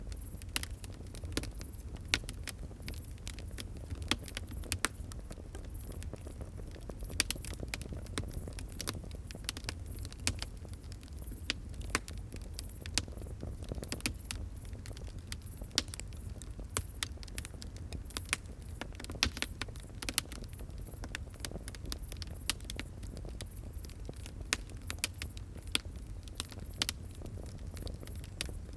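Fire crackling: a steady run of irregular sharp pops and snaps over a low steady rumble.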